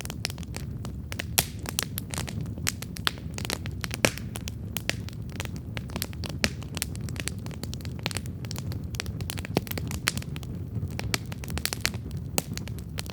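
Wood campfire burning, with frequent irregular crackles and sharp pops over a steady low rush. Two louder pops come about one and a half seconds and four seconds in.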